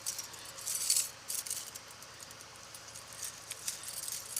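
Metal dog chain clinking and jangling as it is handled: a cluster of sharp clinks in the first second and a half, a quieter stretch, then scattered clinks near the end.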